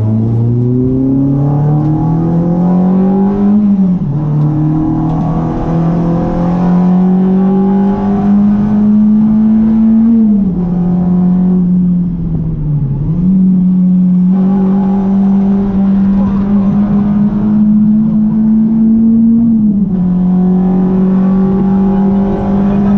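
Renault Clio RS 182's 2.0-litre four-cylinder engine under way on a track: it climbs in pitch under acceleration, drops sharply on gear changes about four, ten and twenty seconds in, dips briefly and picks up again around thirteen seconds, and holds a fairly steady note in between.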